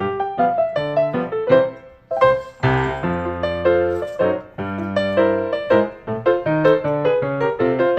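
Background piano music: a quick run of notes, a brief pause about two seconds in, then a sustained chord before the quick notes resume.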